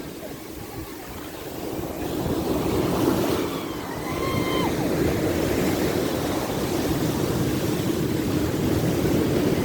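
Ocean surf washing in, swelling louder about two seconds in and then holding a steady rush.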